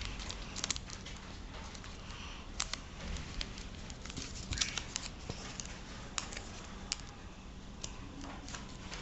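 Sheet of paper being folded and creased by hand into an origami bird base: scattered light crinkles and taps at irregular moments.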